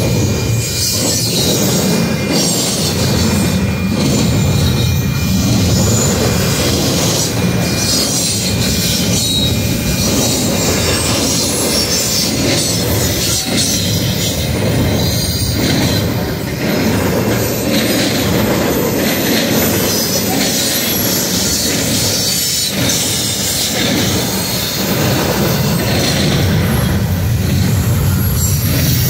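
Double-stack intermodal well cars rolling past close by: a steady loud rumble and clatter of steel wheels on the rails. A thin, high wheel squeal sounds over it in the first few seconds.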